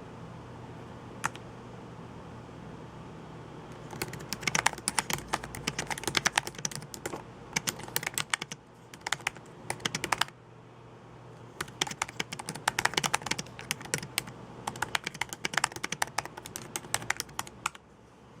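Typing on a computer keyboard: one lone key click about a second in, then two long runs of fast keystrokes separated by a pause of about a second and a half.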